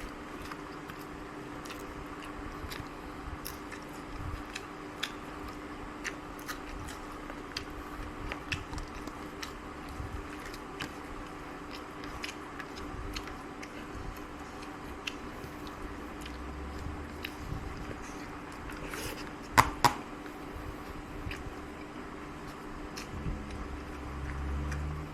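A person eating close to the microphone: chewing with many small clicks and crunches, over a steady low hum. A louder, sharp double knock comes about 20 seconds in.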